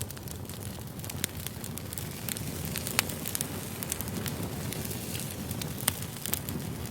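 Wood fire burning: a steady low rumble of flames with frequent sharp crackles and pops from the burning logs, the loudest pops about three seconds in and near the end.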